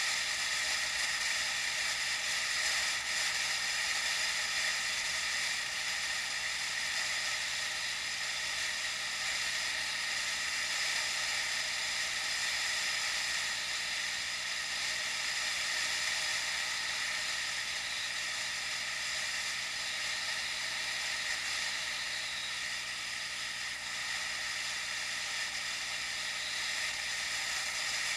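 Steady, even hiss of wind and riding noise picked up by a Swann FreeStyle action camera's microphone while cycling, with no distinct events.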